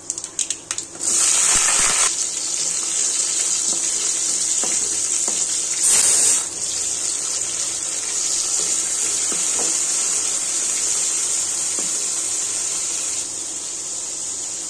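Hot oil in a pan crackling with a few sharp pops, then a loud steady sizzle from about a second in as shallots and chopped tomatoes fry in it. A brief louder surge of sizzling comes about six seconds in.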